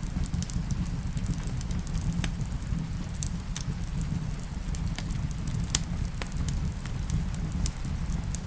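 Wood fire crackling in a fireplace: irregular sharp pops and clicks, the loudest nearly six seconds in, over a steady low rumble.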